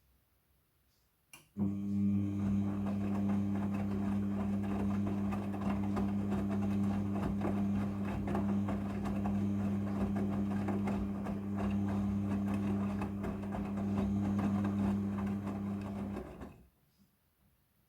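Front-loading washing machine drum turning in a wash-cycle tumble: a click about a second and a half in, then a steady motor hum with clothes and water churning for about fifteen seconds before it stops.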